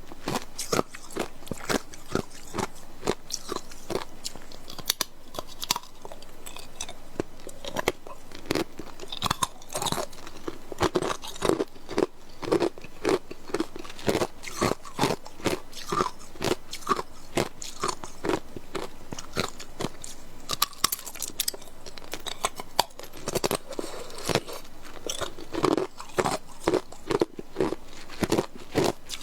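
Ice cubes being bitten and chewed: a continuous run of sharp, hard crunches, several a second.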